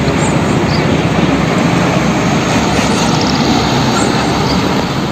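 A steady, loud rush of spraying water washing mud off a toy vehicle.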